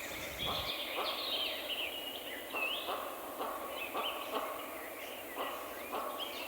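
Several small songbirds chirping and calling in a forest, short rising and falling notes throughout, over a soft brushing noise that recurs about every half second.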